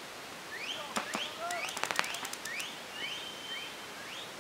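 Birds calling outdoors in a steady series of short rising chirps, repeating several times a second. About a second in, a few sharp pops of paintball markers firing, bunched together and loudest near two seconds.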